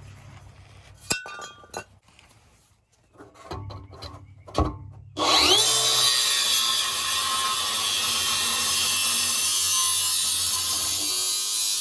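A few knocks and clinks of metal parts being handled, then about five seconds in an electric cutting tool spins up with a short rising whine and cuts steadily through a steel exhaust pipe with a loud, high, hissing noise.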